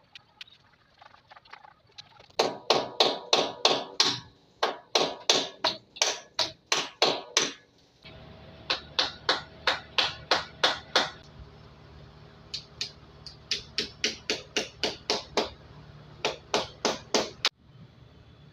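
Hammer blows, about three a second, in several runs with short pauses between them. A steady hum joins under the blows about halfway through and stops just before the end.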